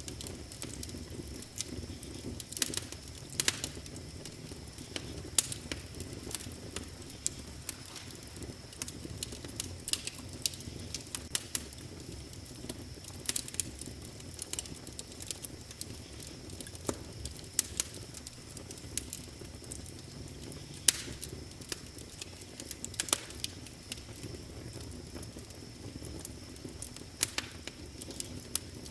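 Wood fire crackling in a fireplace: sharp, irregular pops and snaps over a low, steady rumble of the flames, with a thin steady high tone in the background.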